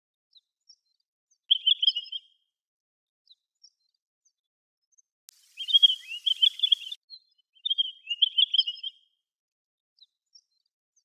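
Pine grosbeaks calling: three short warbling phrases, the middle one longer and louder, with faint, brief high chirps between them.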